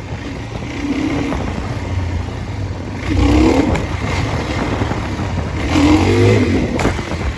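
Dirt bike engine running and revving up twice, a rising surge about three seconds in and another near six seconds, as the rider opens the throttle to pull the front wheel up for a wheelie.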